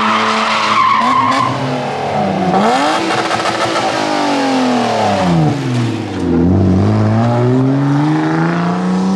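Drift car engine revving hard, its pitch falling and climbing again several times, with tyres squealing and skidding through it. The pitch climbs steadily near the end.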